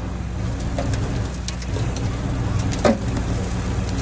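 Diesel engine of earthmoving machinery running with a steady low hum, with one short sharp sound about three seconds in.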